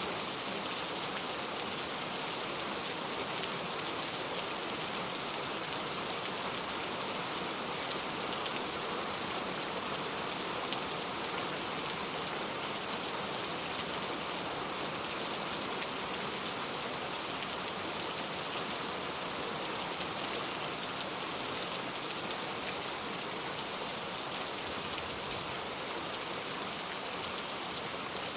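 Steady rain falling, a constant hiss of drops with fine patters throughout.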